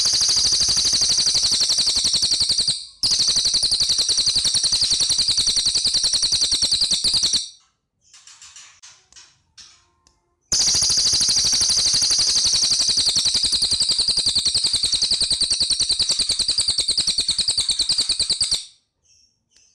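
Cililin songbird singing long, rapid, machine-gun-like high-pitched trills, three long runs with a short pause of fainter twitters between the second and third.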